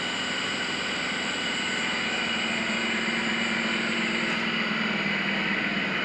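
Driveshaft balancing machine spinning a 2016 Mercedes Vito propeller shaft, running with a steady hum and a high whine while the shaft's balance is measured.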